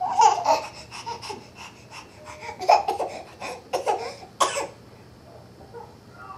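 A small child's voice in short laughing and babbling bursts, some breathy and cough-like.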